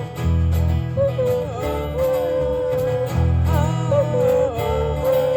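A band playing with guitars and bass guitar, the bass changing notes about once a second under a held, wavering melody line.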